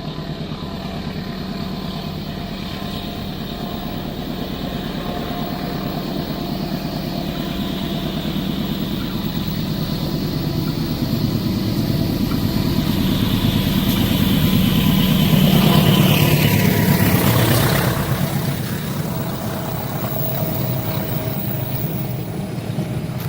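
A motor vehicle engine running and growing steadily louder, with a high whine that falls in pitch about sixteen to eighteen seconds in as it passes, then a steady lower running sound.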